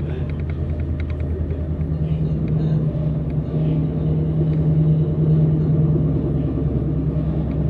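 Passenger train running along the track, heard from inside the carriage: a steady low rumble with a deep hum that grows stronger about two seconds in.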